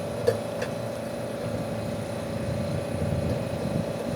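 Steady machinery hum with a constant tone over a low rumble, and a single sharp metallic click about a third of a second in.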